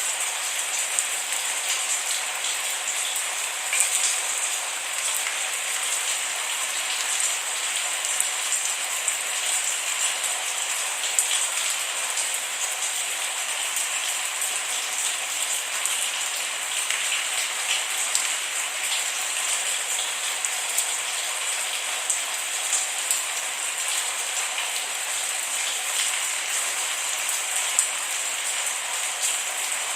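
Steady rain falling with many small drops pattering on a surface, no thunder.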